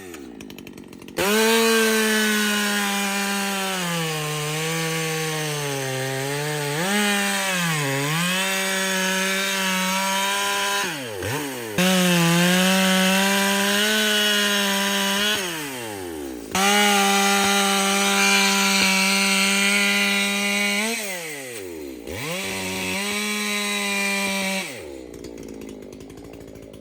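Ported Echo CS-620PW two-stroke chainsaw cutting wood at full throttle in four long runs. Its pitch sags under load and drops away each time the throttle is let off between cuts, and it winds down near the end. The owner thinks the saw was running a little lean.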